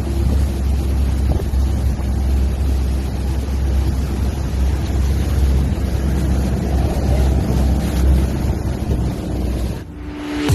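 Wind buffeting the microphone: a steady low rumble with a rushing hiss above it, cutting off just before the end.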